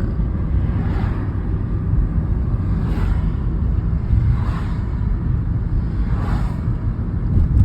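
Steady low road rumble inside a moving car, with a soft swoosh every second or two.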